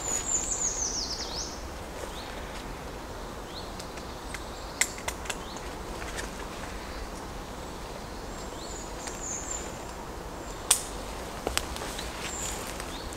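Woodland ambience: small birds chirping high up, a quick falling run of notes at the start and a few more calls later, over a steady outdoor hush. A few sharp clicks cut in, one about five seconds in and two more near the end.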